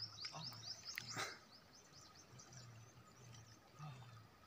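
A small bird sings a fast run of short, falling high notes in the first second and a half, faint over quiet outdoor ambience. A brief burst of noise comes about a second in.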